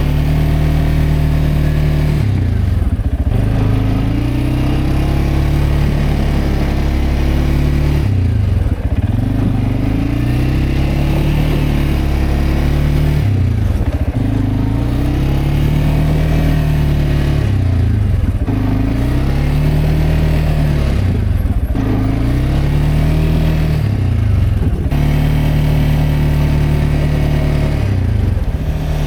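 CFMoto CForce 520L ATV's single-cylinder engine pushing a snow plow through deep snow. The engine speed rises and falls over and over as it drives forward and eases off, about seven times.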